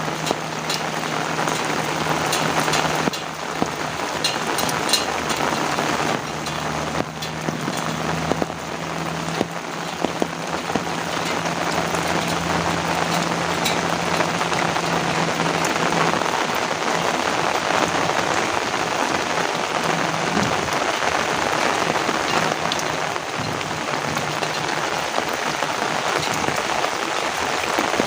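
Heavy rain pouring steadily, with many sharp drop impacts close to the microphone.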